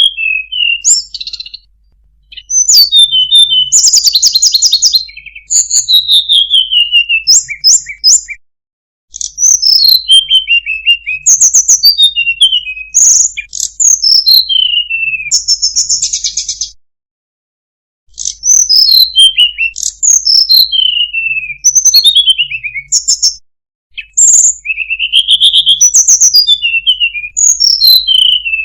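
Sunda robin (tledekan gunung) singing: phrases of clear whistled notes sliding downward, mixed with quick high chips and a few buzzy trills, separated by short pauses.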